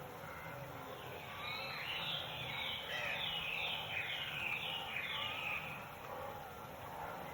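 Songbird singing: a run of short, repeated down-slurred notes, about two or three a second, from about a second and a half in until about six seconds, with fainter chirps around it.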